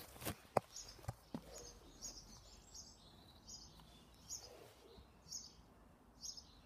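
A small bird chirping over and over, a short high chirp about once a second, with a few sharp taps in the first second and a half.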